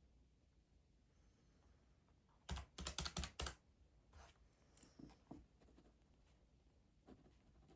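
A quick run of about half a dozen key presses about two and a half seconds in, followed by a few scattered softer taps, against a near-silent room.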